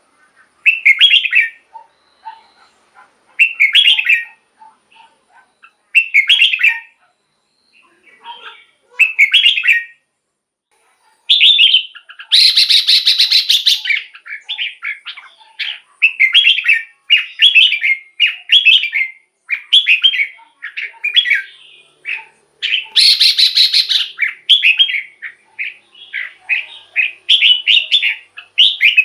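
Red-whiskered bulbul singing: short, bright phrases every two seconds or so, then a quicker, almost continuous run of phrases through the second half. The song is broken twice by a harsh, rasping chatter a second or two long.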